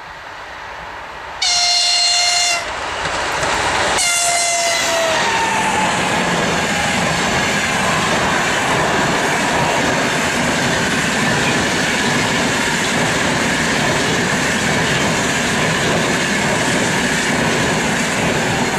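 An EP20 electric locomotive approaching at speed and sounding its horn twice: one blast about a second and a half in and a second about four seconds in that drops in pitch as it goes by. Then the steady rush and wheel clatter of the express train's coaches passing.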